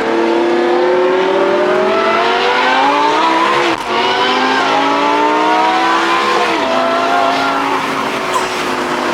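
Supercar engine accelerating hard, its pitch climbing steadily. It makes a quick upshift about four seconds in, climbs again, then drops in pitch with another shift near seven seconds and runs on at a steadier pitch.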